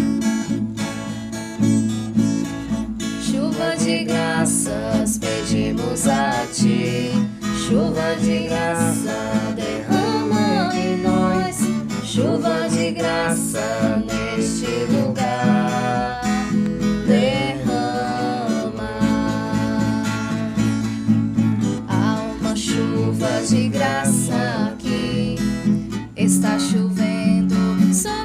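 Acoustic guitar strummed steadily under a voice singing a slow worship song melody.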